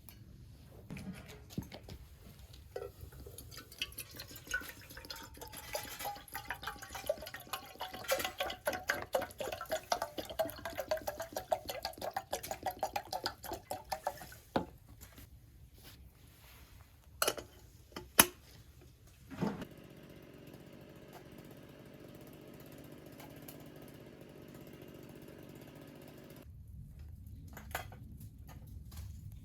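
Twigs and dry cedar needles crackling and popping as they burn in a small secondary-combustion wood stove, with a faint whistle that slides down in pitch. Later come a few sharp knocks and a steady hum that stops suddenly.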